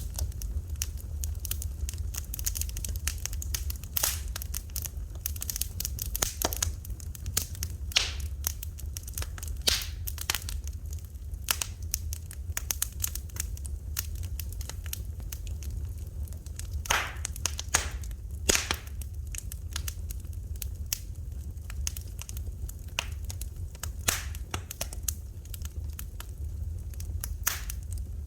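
Wood fire crackling in a fireplace: irregular sharp pops and snaps, a few louder ones scattered throughout, over a steady low hum.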